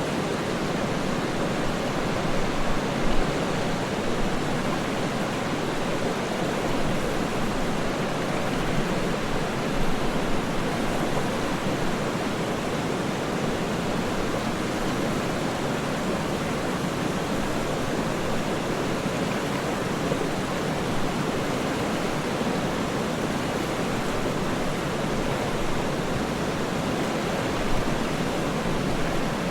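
Waterfall: a steady, even rush of falling water, with a couple of brief small swells about three and ten seconds in.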